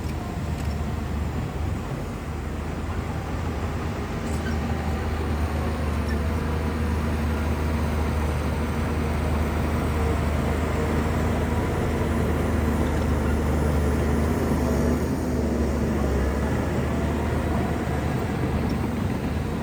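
Shantui bulldozer's diesel engine running steadily under load as it pushes mud and soil, a deep constant drone that grows a little louder through the middle.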